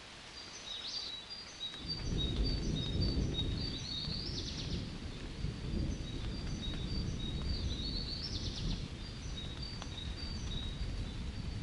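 Tits singing a run of short, repeated high chirps, while a deep rumble of thunder rolls in about two seconds in and carries on underneath.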